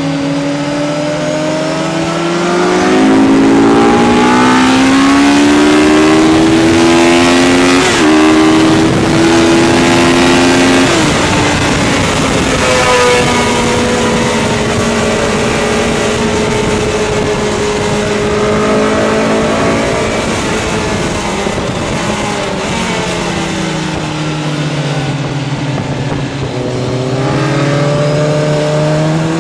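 Onboard sound of a sport motorcycle's engine lapping a circuit. The revs climb for the first several seconds with a sudden step about eight seconds in, drop off around eleven seconds, run fairly steady, sink again and climb once more near the end. A steady rush of wind runs under it.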